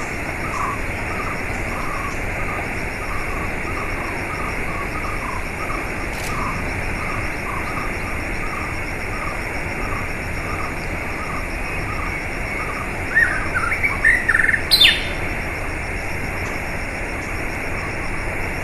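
Steady rushing water with a small bird repeating a short chirp about twice a second. Around two-thirds of the way through come a few louder sweeping bird calls, ending in one sharp rising call.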